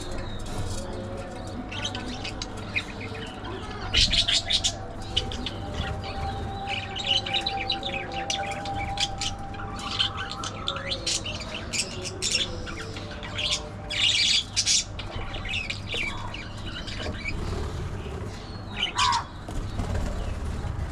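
Budgerigars chirping and chattering in scattered bursts of quick, high chirps, over a steady low hum.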